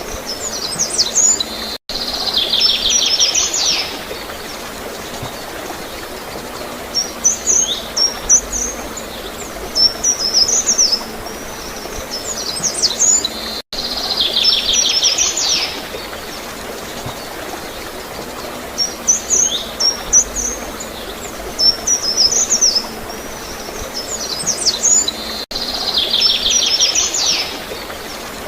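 Songbirds chirping and trilling in quick high phrases over a steady hiss of flowing water. The same run of calls comes round again about every twelve seconds, with a brief dropout each time it restarts.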